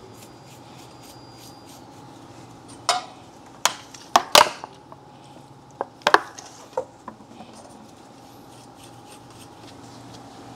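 Sharp metallic clinks and knocks of brake caliper parts and tools being handled, a cluster of about a dozen between about 3 and 7 seconds in, over a faint steady hum.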